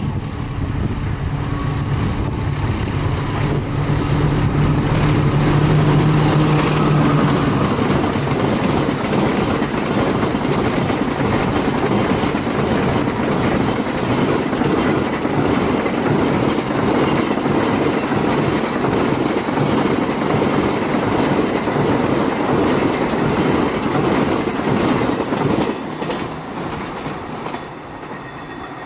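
Diesel-hauled train passing close by at speed. A low engine drone is heard for the first several seconds, then the cars roll past with a steady clatter of wheels over the rail, which dies away near the end.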